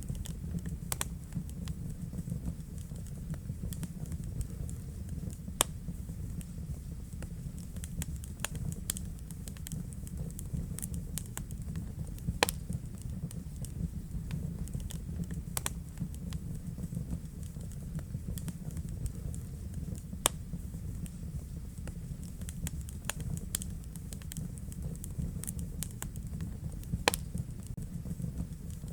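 Wood fire burning in a fireplace: a steady low rumble of flames with scattered crackles and sharp pops, a few louder pops standing out.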